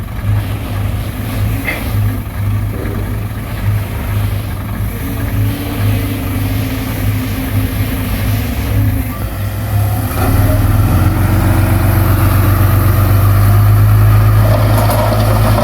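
Heavy diesel engine of earthmoving equipment running steadily, growing louder about ten seconds in as it comes under more load or closer.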